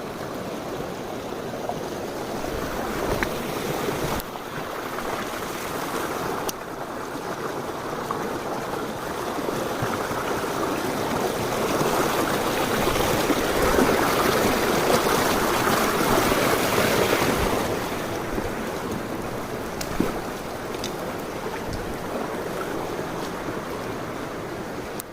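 Mountain stream rushing over rocks. It is steady, grows louder for several seconds midway, then eases back, with a few light knocks now and then.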